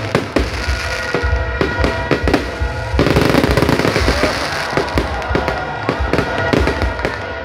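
Aerial fireworks going off overhead in rapid succession, a dense string of bangs and crackling, with the barrage growing denser and louder about three seconds in. Music plays underneath.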